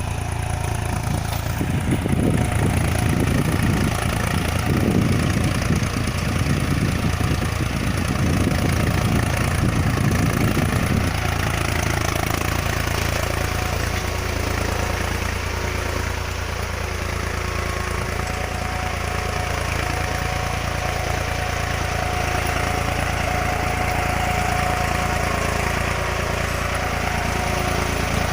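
Tractor engine running steadily. For roughly the first ten seconds a heavier, uneven rumble rides on top of it, then it settles to an even drone.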